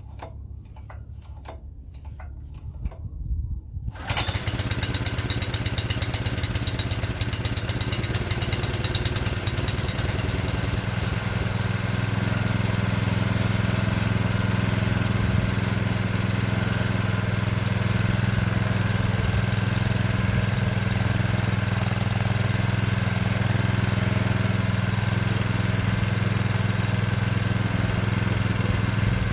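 Classen TRC 20 power rake's small gasoline engine on its first cold start of the season: a few short knocks, then about four seconds in the engine catches and settles into a steady run.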